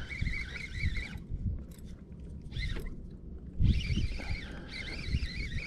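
Baitcasting jigging reel being cranked to wind in a hooked horse mackerel: a wavering gear whine that breaks off about a second in and picks up again near the middle, over low knocks.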